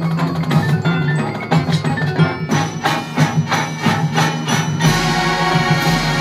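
Marching band field-show music: the front ensemble's mallet percussion plays quick struck notes over a held low tone. About five seconds in, a full sustained chord swells in over it.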